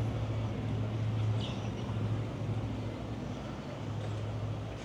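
A motor running steadily with a low hum, over general outdoor background noise.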